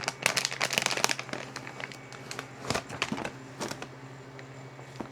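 Plastic packaging crinkling as it is handled: a dense run of crackles in the first second, then a few scattered short rustles. A low steady hum runs underneath.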